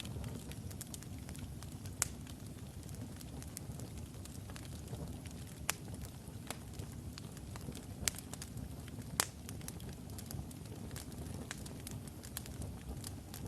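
Wood logs burning in a fireplace: a steady low rumble of flames with scattered sharp crackles and pops, a few louder snaps standing out.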